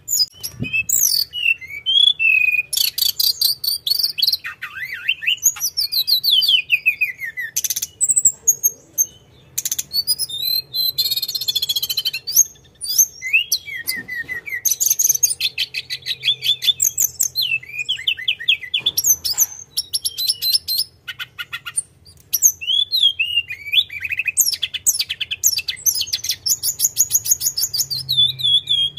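A tledekan gunung songbird singing without a break in fast, varied phrases. Its song mixes rapid rolling trills of repeated notes with sweeping high whistles, the full non-stop singing that bird keepers call gacor.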